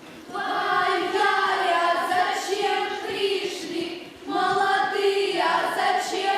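A group of young female voices singing a song together, in two long phrases with a short break about four seconds in.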